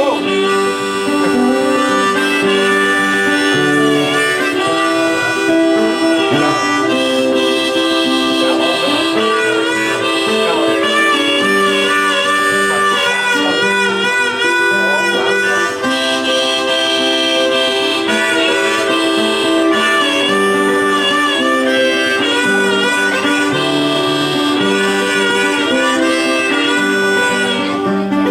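Harmonica playing a melody of held, wavering notes over strummed acoustic guitar chords, as an instrumental song intro.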